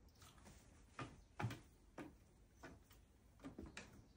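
A white stork's feet tapping faintly and unevenly as it walks on a hard surface, about seven soft taps in four seconds.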